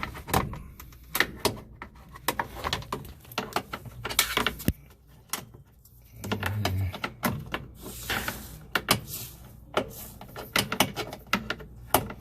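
Irregular clicks, knocks and clatter of a screwdriver, screws and a metal cover panel being handled on a washing machine, with a couple of short scraping sounds.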